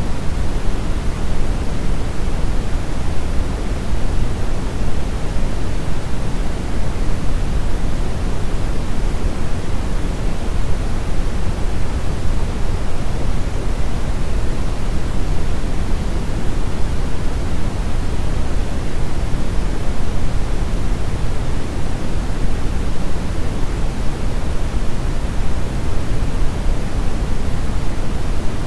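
Brown noise: a steady, unchanging rumbling hiss, heaviest in the low end, with no events or changes.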